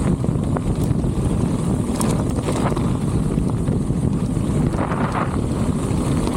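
Strong wind buffeting the microphone of a moving bicycle rider: a steady, loud low rush, with a few faint ticks about two seconds in and again near five seconds.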